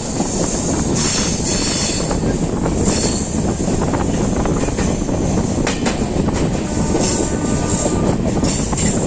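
Passenger express train running on the track, heard from the coach: a steady rumble with sharp wheel clicks over rail joints, and a brief high wheel whine about seven seconds in.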